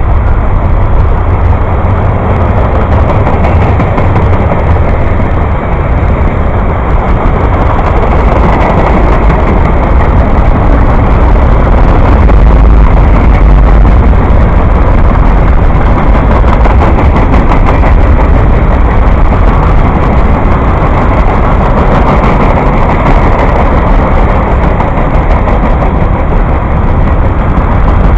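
A train passing close by: a loud, steady rumble that runs on without a break.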